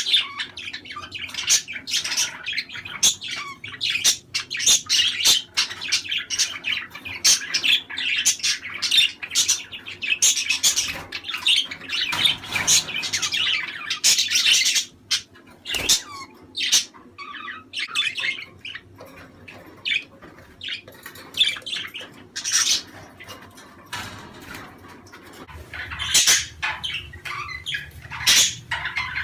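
Budgerigars chattering and warbling, with many quick squawks and clicks overlapping in a dense, steady stream that thins out for a while past the middle and picks up again near the end.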